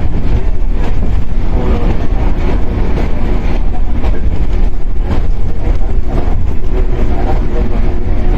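Interior running sound of a Shinano Railway 115-series electric train, heard inside motor car KuMoHa 115-1013. Its MT54 DC traction motors and gears hum steadily over the heavy rumble of wheels on rail, with occasional knocks from the track.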